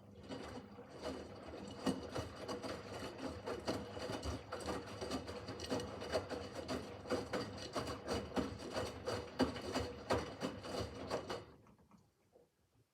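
Miele W5801 WPS front-loading washing machine turning its drum during the wash, the motor humming steadily with laundry tumbling and clicking inside; the drum stops near the end.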